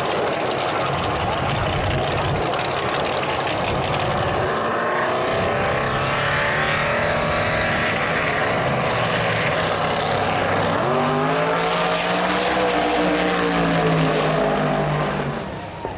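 A race car engine running loudly, its pitch climbing over the last few seconds before the sound drops off near the end.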